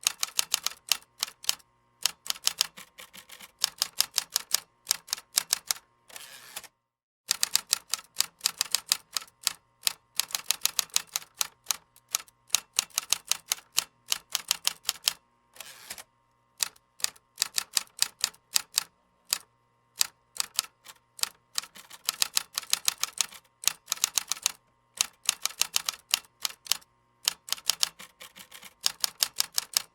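Fast typing on a computer keyboard: rapid runs of key clicks, broken now and then by short pauses.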